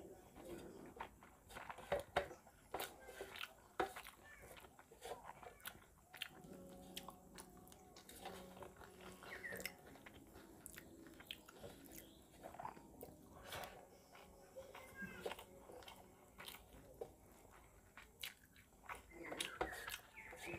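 A person chewing a mouthful of rice and fish curry, with frequent short wet smacking clicks from the mouth, while fingers mix rice against a metal plate.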